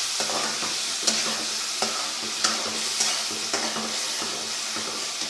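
Onion, tomato and spice masala sizzling as it is fried in ghee in a pot, stirred with a spoon that clinks against the pot several times. This is the bhuna stage, cooked until the ghee separates.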